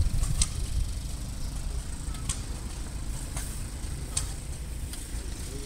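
Low, steady rumble of engines running, with a few sharp ticks scattered through it.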